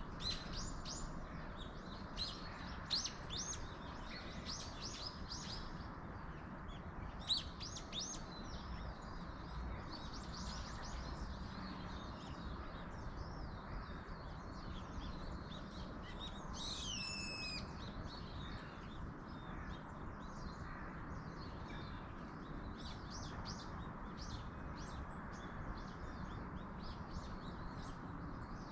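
Small birds chirping and singing in short, frequent phrases over a steady hiss of wind in the trees. Just past halfway, a louder call falls steeply in pitch.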